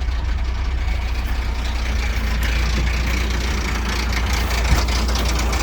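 Ford Ranger engine idling steadily, running on fresh 5W-40 oil with an engine-honey oil additive after a filter change; its valve train sounds pretty quiet now. A single sharp tick comes near the end.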